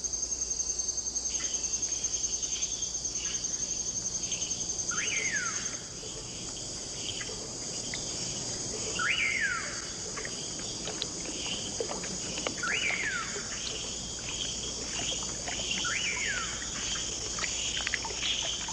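Rainforest insect chorus: a fast, high-pitched pulsing insect trill that stops about six seconds in, over a steady high insect hiss. Many short animal calls sound throughout, with four louder swooping calls spaced three to four seconds apart.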